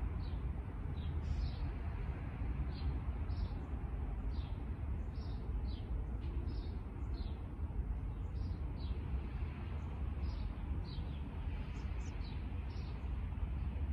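Small birds chirping, short high chirps repeating about twice a second, over a steady low rumble.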